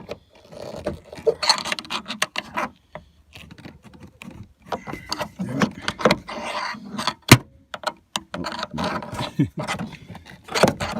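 Irregular clicks, knocks and rattles of parts and tools being handled on a truck door, with one sharp, loud click about seven seconds in.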